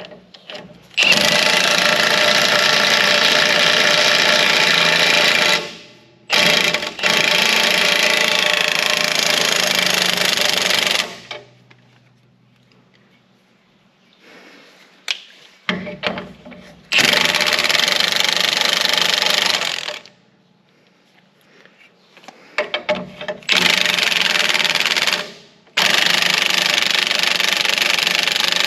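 Impact wrench running in five long bursts, tightening nuts on loader bracket bolts, with short clicks of the tool being handled in the gaps.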